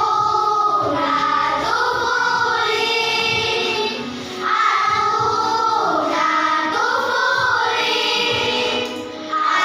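A choir singing sustained, held notes in two long phrases, with a short pause for breath about four seconds in and another near the end.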